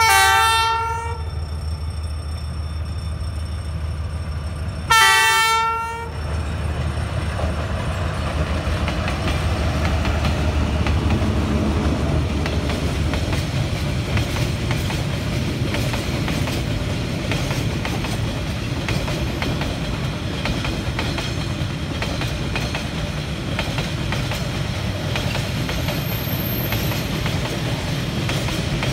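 D19E diesel-electric locomotive sounding its horn twice, each blast about a second long and about five seconds apart, then the locomotive and a long freight train of container flat wagons passing close by with a steady rumble and the clickety-clack of wheels over rail joints.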